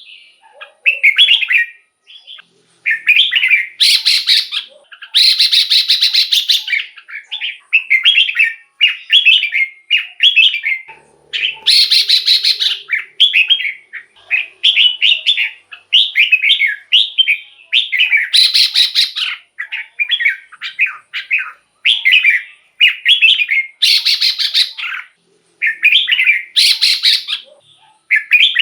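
Red-whiskered bulbul singing: short, bubbly whistled phrases about once a second. Every few seconds they are broken by a longer, louder, scratchy rasping burst.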